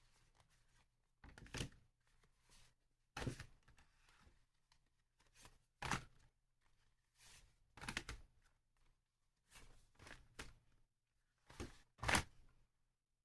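Irregular knocks and clicks of small plastic model parts being handled and set down on a work surface, about eight of them, the loudest near the middle and near the end.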